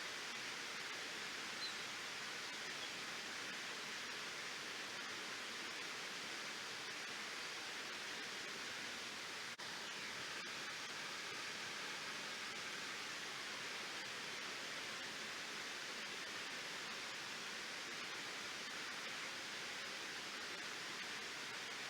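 Steady rush of water pouring over the Turner Reservoir waterfall, an even hiss without change.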